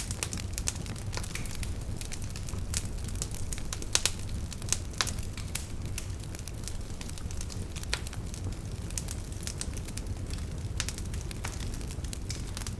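Wood fire crackling, with irregular sharp pops and snaps over a low, steady rumble. The loudest pops come about four and five seconds in.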